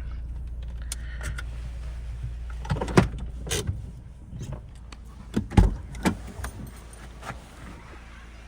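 A handful of clunks and rattles as a farm gate is opened, loudest about three seconds and five and a half seconds in, over a steady low rumble from the stopped Renault Duster's engine idling.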